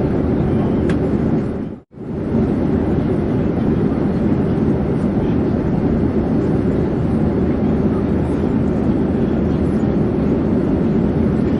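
Steady drone of an airplane in flight, a dense even rumble of engines and rushing air with no rise or fall. It cuts out for a moment about two seconds in, then resumes.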